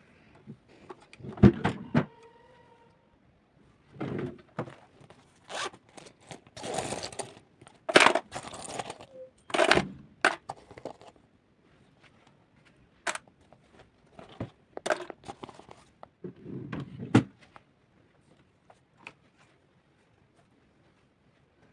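Objects being handled and set down on a hard surface: an irregular run of knocks, thuds and short scrapes, mostly quiet in the last few seconds.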